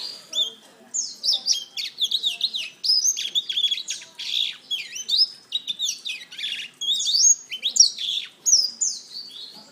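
Blackthroat (black-throated canary, a serin) singing a long, fast warbling song of quick high swooping notes with only brief breaks.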